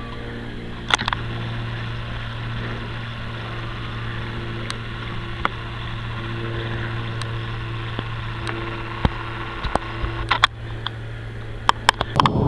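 Steady low drone of an aircraft passing overhead, with a few sharp clicks scattered through it, more of them near the end.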